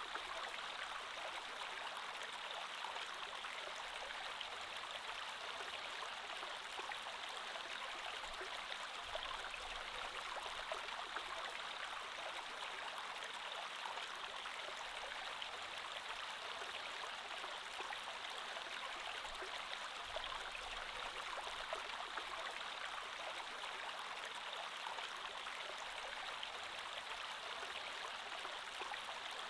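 Creek water flowing steadily over rocks, an even rushing with fine bubbling and splashing.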